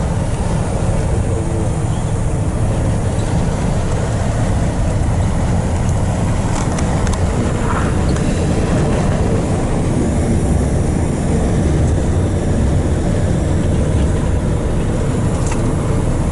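Steady engine and road noise inside the cab of a moving truck: a constant low rumble that holds an even pace throughout.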